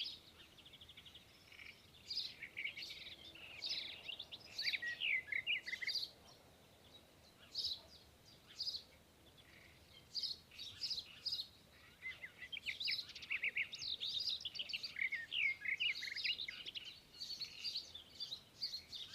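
Sparrow chirping: many short, quick chirps in bouts with brief pauses between them, busiest in the last third.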